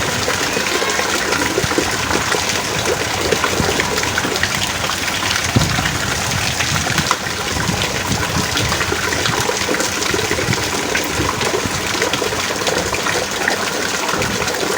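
Heavy rain falling steadily: a dense, even hiss of countless drops, peppered with sharper individual drop impacts.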